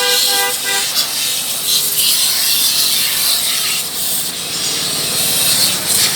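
Steady hissing, rubbing noise of a motorbike being washed, with a vehicle horn sounding for about the first second.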